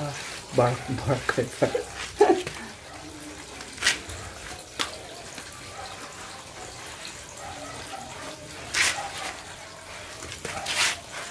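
Water running from a tap, with several short splashes as a dog is washed.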